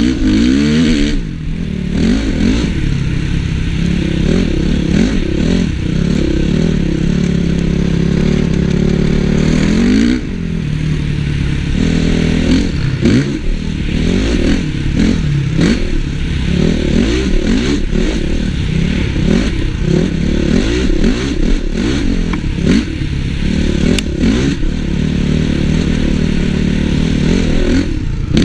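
Honda CRF450 motocross bike's single-cylinder four-stroke engine under hard riding, revving up and down as the throttle opens and shuts. A long rising rev about ten seconds in cuts off suddenly as the throttle is closed.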